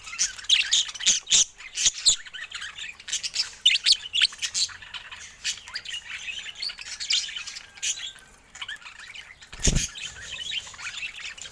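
Budgerigars chirping and squawking in quick, busy bursts, with a single low thump about ten seconds in.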